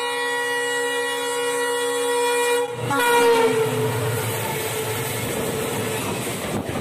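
A locomotive horn sounding on one steady chord, then, about three seconds in, a train passing close by: the horn's pitch drops as it goes past and gives way to the rushing clatter of the coaches.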